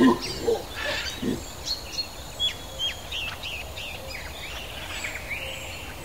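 Several forest birds chirping and calling, with short high chirps and quick falling whistles. A few short low calls come in the first second and a half.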